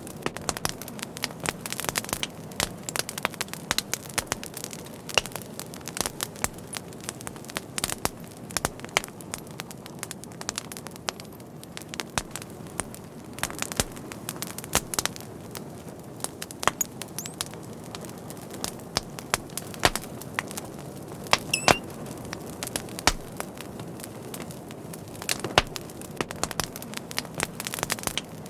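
Fire crackling: irregular sharp pops and snaps over a steady low rush of flame, with a brief high whistle about two-thirds of the way through.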